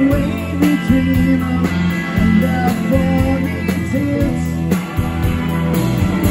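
Live rock band playing: electric guitar with bending melodic lines over sustained bass notes and a steady drum beat.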